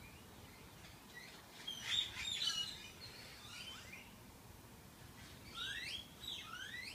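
Bird chirping: a run of quick, falling chirps about two seconds in and several more near the end, faint.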